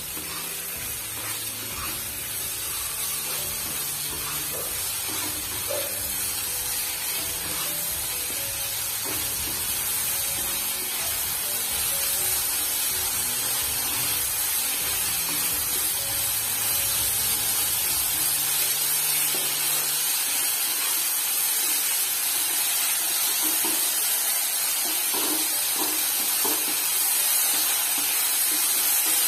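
Thin strips of potato sizzling as they fry in oil in a nonstick kadai while being stirred: a steady hiss that grows gradually louder.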